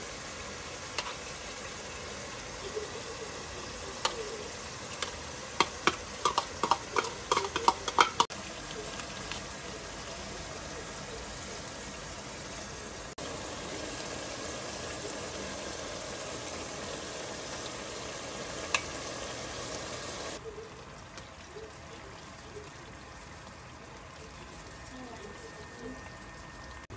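Beef and diced vegetables sizzling in very hot oil in a pot, a steady frying hiss. About six to eight seconds in comes a quick run of sharp clicks from a spoon knocking against the bowl and pot. Some twenty seconds in the sizzle drops to a quieter level.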